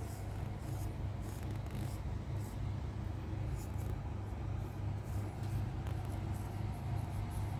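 Scratching on a cat's fur: short, irregular scratchy strokes over a steady low hum.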